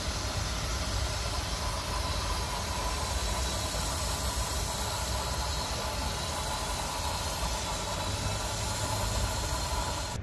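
Electric passenger train approaching slowly under overhead wires: a steady hum and hiss with a strong low rumble and no wheel clicks.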